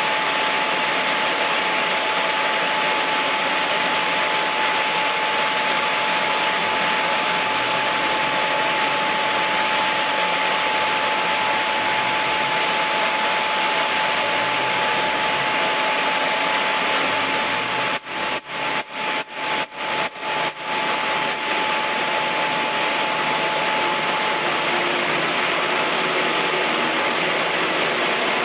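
Chainsaw running steadily and loudly while milling a log, with one steady tone riding over the engine and chain noise. About two-thirds of the way through, the sound cuts out briefly about seven times in quick succession.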